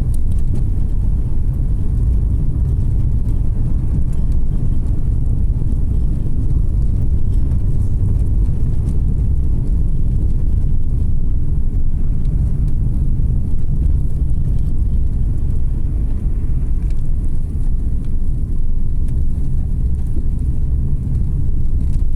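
Car driving along a road, heard from a dashcam: a steady low rumble of engine and tyre noise with no marked changes.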